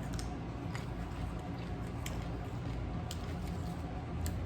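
Close-up chewing of a sub sandwich: soft squishing with a few sharp mouth clicks scattered through, over a steady low hum.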